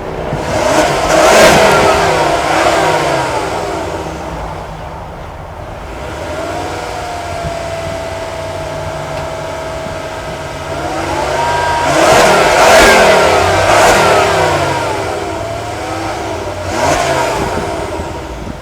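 Turbocharged 2.5-litre five-cylinder engine of a 2009 Volvo S60 2.5T being revved: a rev about a second in that falls away, a steady hold at raised revs for several seconds, then two more revs and a short blip near the end.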